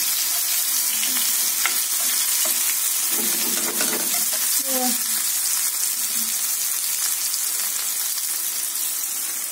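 Battered chicken chops sizzling steadily in hot oil in a frying pan, with a few light taps and scrapes of a utensil against the pan as the pieces are turned over.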